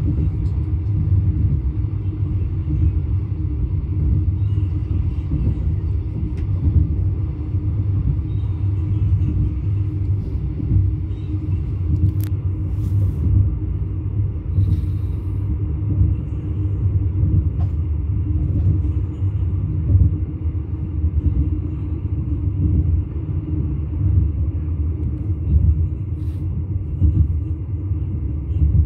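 Steady low rumble of a passenger train running at speed, heard from inside the carriage as wheels roll on the rails. A few faint clicks come in around the middle.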